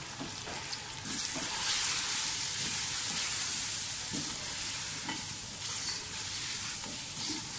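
Mutton, tomatoes and ground spices sizzling in hot oil in an open pressure cooker while a wooden spoon stirs and scrapes them round: the meat is being browned with its masala (bhuna). The sizzle gets louder about a second in, as the stirring starts.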